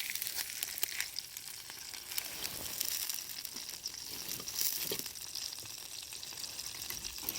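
Steady sizzling with sharp crackles from food cooking over a wood campfire.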